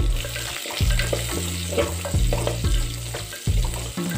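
Sliced onions sizzling in hot oil in a clay pot, with a wooden spatula scraping and knocking against the pot every half second or so as they are stirred. Background music with a low bass line plays underneath.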